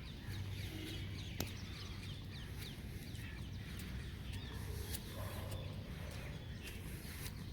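Steady rain with many short, high bird chirps throughout and scattered sharp taps of drops; a lower call sounds briefly about five seconds in.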